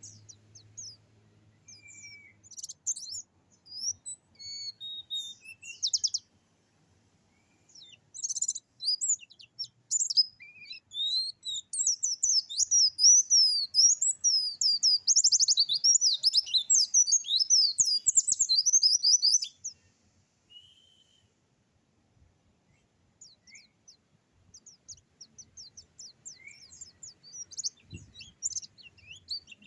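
A dakun songbird singing a fast, varied song of high chirps and trills. The notes come in short phrases at first, then in a long unbroken rapid run through the middle, break off suddenly into a few scattered single notes, and build into rapid song again near the end.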